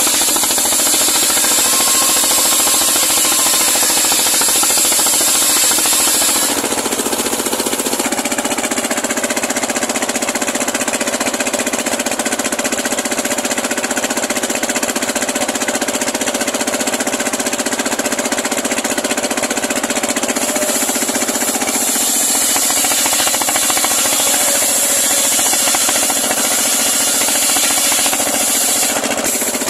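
Homemade circular sawmill running, its blade cutting through a large pule log with a loud, steady machine noise. The tone changes about six seconds in and again near twenty seconds.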